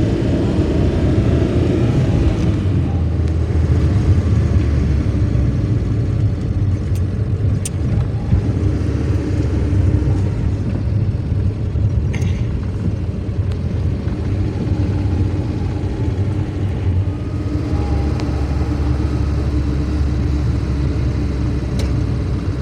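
A motor vehicle running: a steady low engine rumble with a few brief clicks.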